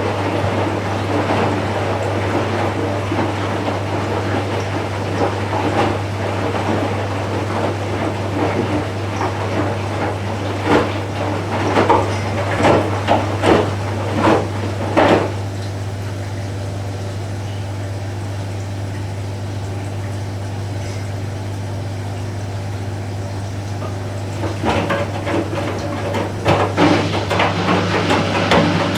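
Candy Smart Inverter front-loading washing machine running, with water swishing and a series of clunks and clicks from the drum; it settles to a steadier run partway through, then the clatter picks up again near the end. A steady low hum runs underneath.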